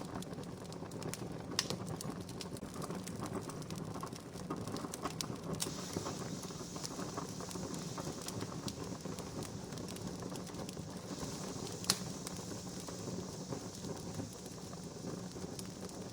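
Wood campfire crackling: a steady hiss of burning with many small scattered pops, and two sharper pops, one early and a louder one about twelve seconds in.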